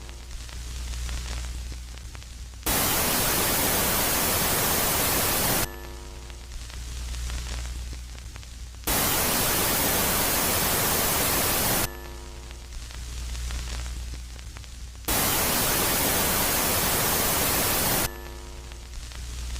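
Synthetic 'space sound' of static-like hiss that switches back and forth between a loud phase and a quieter phase about every three seconds; each quieter phase carries a low hum and opens with a brief cluster of steady tones that fades.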